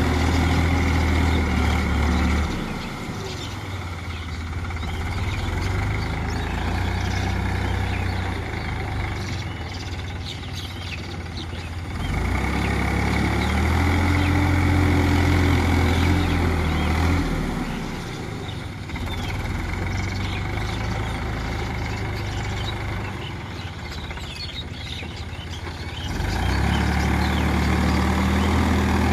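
New Holland tractor's diesel engine running steadily while tilling a field. It grows louder and heavier three times, near the start, in the middle and near the end, and drops back between, as the tractor works back and forth.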